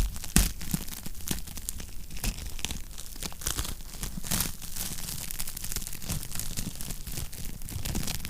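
Wood fire crackling in a fireplace: a dense run of small pops and snaps, with two louder pops right at the start.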